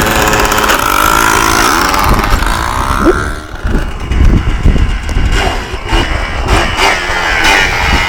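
Yamaha Blaster quad's single-cylinder two-stroke engine running under throttle, rising in pitch over the first three seconds and dropping off at about three and a half seconds, then running unevenly.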